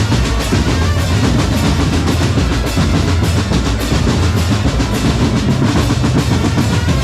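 Percussion group drumming: bass drums and snare drums playing a steady, unbroken rhythm.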